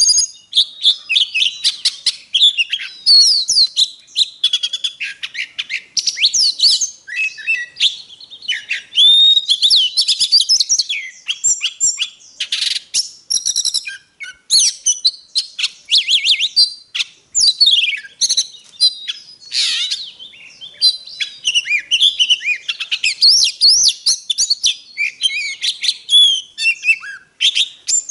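Oriental magpie-robin singing without a break: a rapid, ever-changing stream of clear whistles, sliding notes and trills. It is a lure song, played to stir other magpie-robins into singing.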